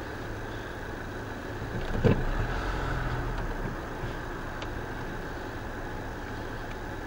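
Car engine idling steadily, heard from inside the stopped car. About two seconds in there is a single short thump, followed by a second or so of louder low rumble.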